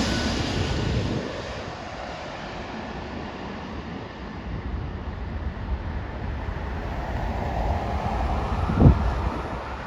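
A jet aircraft's engine noise fades away over the first second or so, leaving wind on the microphone and a low rumble that slowly builds again. A single short thump comes near the end.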